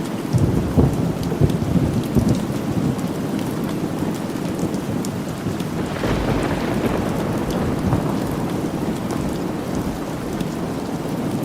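Steady rain falling, with rolling thunder: heavy low rumbles from about half a second to two and a half seconds in, and another swell of thunder around six seconds in.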